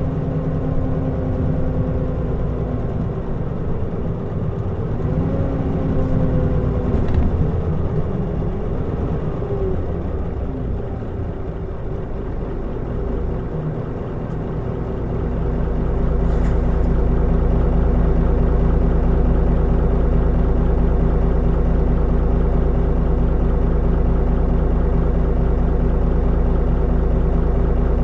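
Mitsubishi Fuso Aerostar bus's diesel engine running on the move, its note gliding up and down through the first half as speed and gears change. About halfway through it settles into a louder, steady deep drone.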